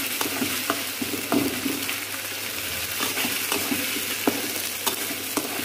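Chopped tomatoes sizzling in hot oil in a black kadai, stirred into the fried onion and ginger-garlic masala with a metal spatula. Irregular clinks and scrapes of the spatula against the pan sound over a steady sizzle.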